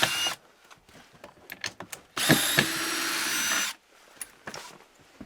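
Power drill running in two bursts, the second about a second and a half long starting around two seconds in, with scattered clicks and knocks between.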